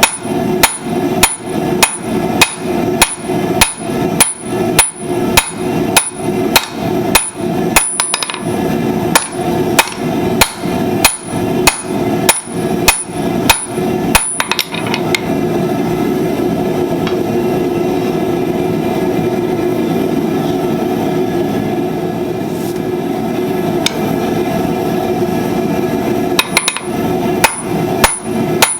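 Blacksmith's hammer striking hot steel on an anvil in a steady rhythm of about two blows a second, some blows ringing, while forging flat-nib tongs. About halfway through the hammering stops and a steady rushing noise takes over for about eleven seconds, then the hammer blows resume near the end.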